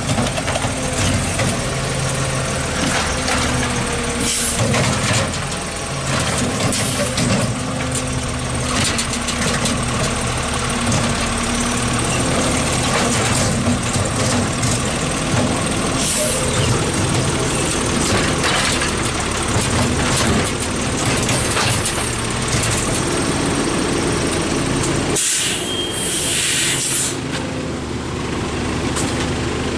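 Garbage truck engine running at a steady idle, with scattered clanks, and a two-second air-brake hiss near the end.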